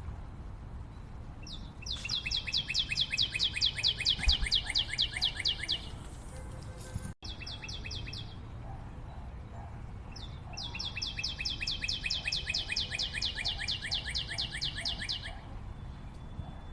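Forest bird calling: a long, rapid string of high, evenly repeated notes, about seven a second, lasting some four seconds, then a second string of the same about halfway through, over a steady background hum of the forest.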